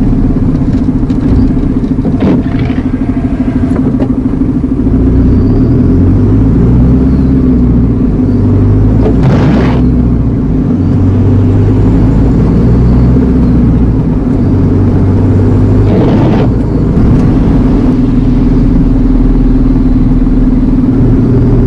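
Iveco Eurocargo lorry's diesel engine running steadily on the road, a constant low drone, with two brief rushing swells, about nine and sixteen seconds in.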